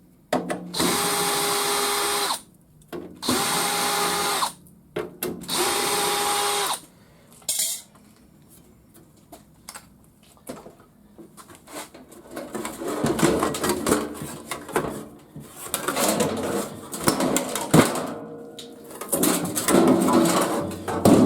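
Power drill spinning out screws in three runs of about two seconds each, with a steady whine. After a pause, irregular clattering and knocking as the garage door opener's steel casing is worked loose and lifted off.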